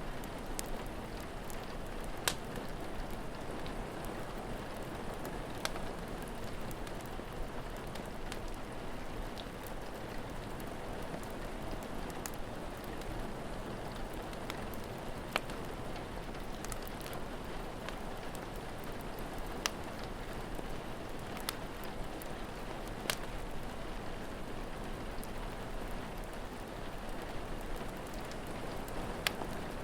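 Steady rain falling, with a wood fire crackling and giving occasional sharp pops every few seconds.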